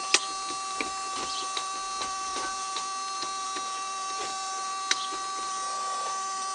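Steady mechanical whine, like a small electric motor running, with irregular sharp clicks and ticks over it, one loud click just after the start and another about five seconds in.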